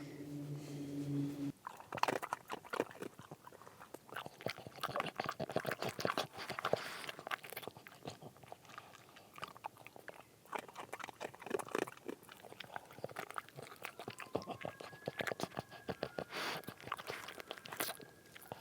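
Dense, irregular crunching and crackling, many small clicks close together, starting about a second and a half in once a low steady hum stops.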